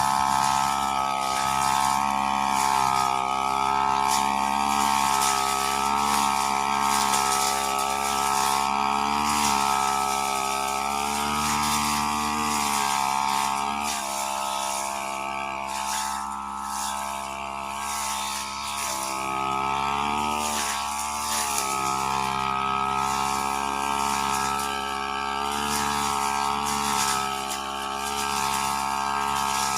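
Brush cutter's small petrol engine running steadily, its speed rising and falling as the throttle is worked.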